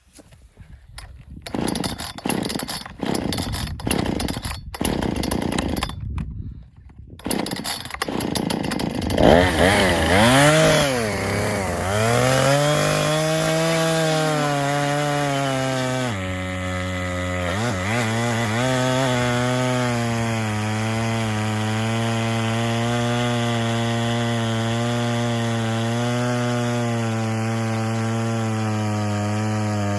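Two-stroke chainsaw engine: a few seconds of rough, uneven noise before it catches about eight seconds in. It revs up and down a couple of times, then runs at a steady speed with a brief dip partway through.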